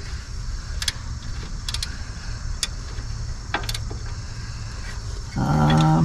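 Light metallic clinks of hand tools being set on the rear brake caliper bolts, a few sharp ones spread out over a steady low rumble. A short, low hum comes near the end.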